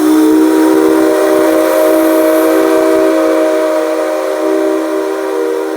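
Whistle of the C57 135 steam locomotive blown in one long, loud blast, several steady tones sounding together as a chord. It slides briefly up into pitch as it starts, then holds steady.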